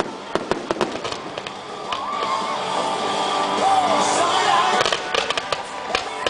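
Aerial fireworks going off: a rapid run of sharp pops and crackles, then from about two seconds in louder music plays over them, with more pops near the end.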